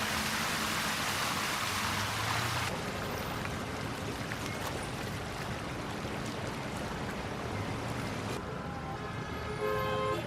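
Steady rushing of floodwater and traffic on a flooded street, changing abruptly twice between shots. A car horn honks briefly near the end.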